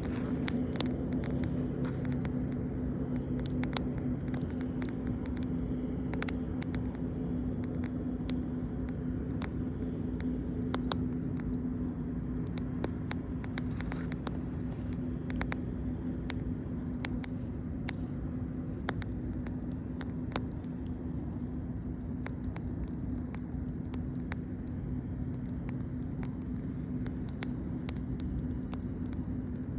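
Campfire wood crackling, with many sharp irregular pops and snaps over a steady rushing noise and a constant low hum.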